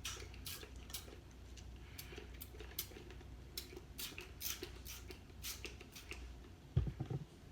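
Short, sharp handling noises at an uneven pace, about two or three a second, as homemade slime ingredients are added and worked in a cup. There is a louder dull bump near the end.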